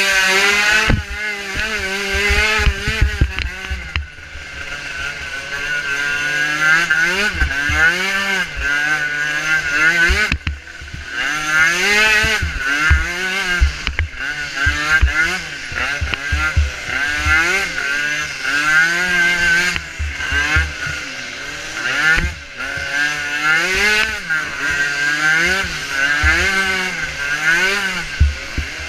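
Small engine of a micro racing ATV, revving up and dropping back over and over as the rider accelerates and backs off around the course.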